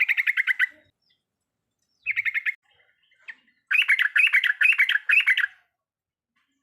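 Yellow-vented bulbul (trucukan) giving its rapid chattering 'riwikan' call: three bursts of quick, bubbly repeated notes, the last and longest about two seconds long.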